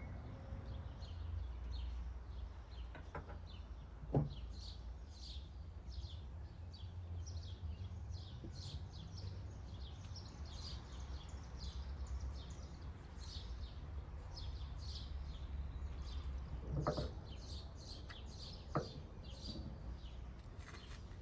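Small birds chirping steadily in quick repeated notes over a low background rumble, with a few short knocks from food handling, the loudest about four seconds in.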